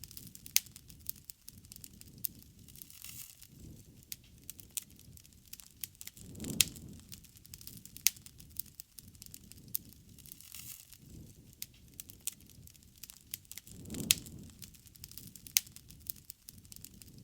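Wood bonfire crackling, with sharp pops and snaps scattered irregularly throughout. A low, soft rushing swell rises and fades twice, about six and a half seconds in and again near fourteen seconds.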